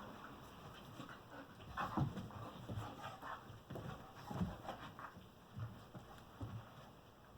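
Two border collies play-wrestling: panting, with short uneven bursts of dog noise about once a second.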